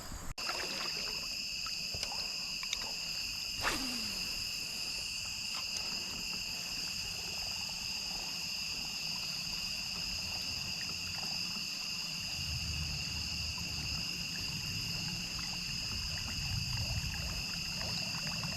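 A steady insect chorus, two constant high-pitched droning trills at once, with a faint low rumble joining about twelve seconds in.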